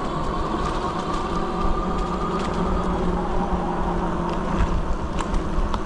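Fat-tire electric bike riding along a trail: a steady electric-motor whine with a low rumble of tyres and wind at the microphone, and scattered small clicks and ticks from the bike over the ground.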